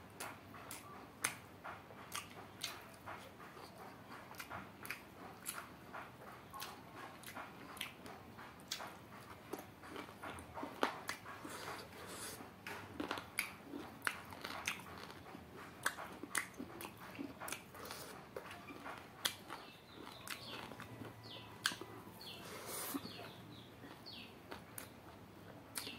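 Close-up eating sounds: chewing and lip-smacking on duck and rice eaten by hand, a steady run of short wet clicks and smacks.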